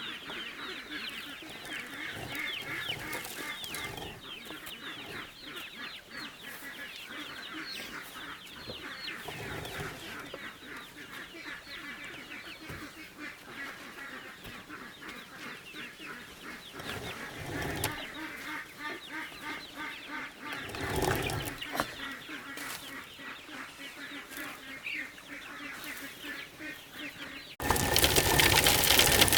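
A flock of chickens clucking and peeping, many short calls overlapping. Near the end a much louder, steady mechanical noise cuts in suddenly.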